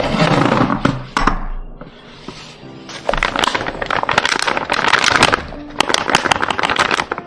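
Dense crackling and crunching with many sharp clicks, in two long stretches with a quieter gap of about a second between them, over soft background piano music.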